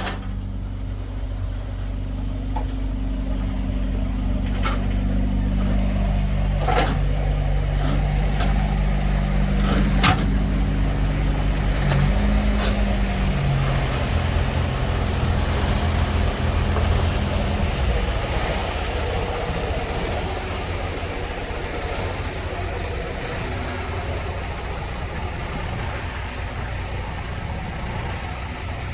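A vehicle engine running, its pitch stepping up and down a few times, with a few sharp clicks in the first half.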